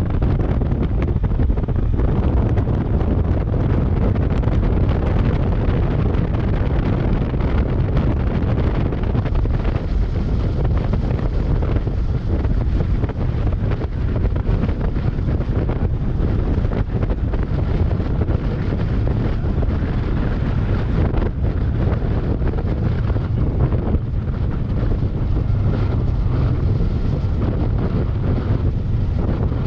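Steady wind buffeting the microphone on a moving Kawasaki Versys 650 motorcycle, with the bike's road and running noise beneath. It is a dense, low rush that does not let up.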